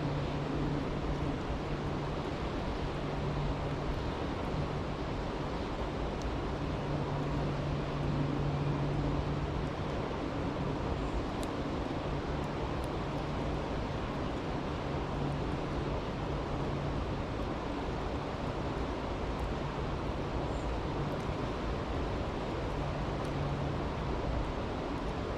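Brook rushing steadily, with a low hum that fades in and out and a few faint pops from a crackling campfire.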